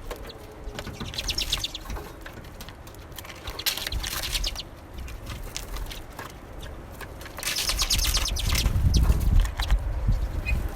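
Small songbirds giving bursts of rapid chattering calls, three times a few seconds apart. A low rumble builds in the last few seconds.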